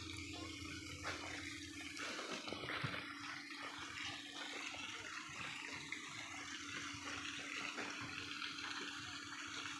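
Steady running water: a faint, even rush with a low hum underneath.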